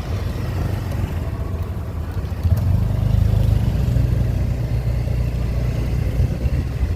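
Motorbike engine running while being ridden, a low rumble that gets louder about two and a half seconds in.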